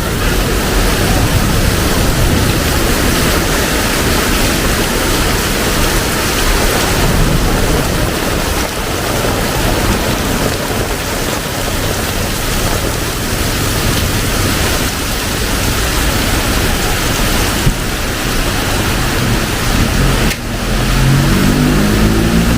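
Heavy tropical rain pouring down in a steady, loud hiss. Near the end a vehicle engine comes in, its pitch rising a little.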